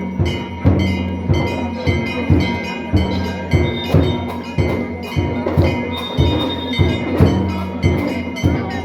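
Temple drums and bells during the evening lamp lighting: a drum beaten in a steady rhythm, about three strokes every two seconds, with metal bells ringing along.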